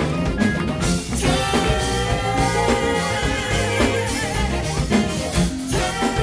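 A live soul band playing a song at full level, the whole band coming in together at the very start.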